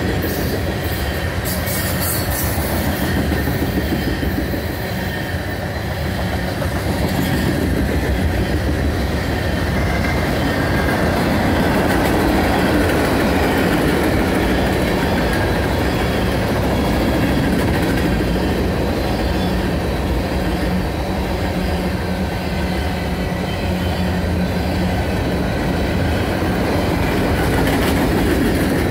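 Steel wheels of a long freight train's cars (tank cars, covered hoppers and gondolas) rolling past close by: a steady, loud rumble and clatter on the rails.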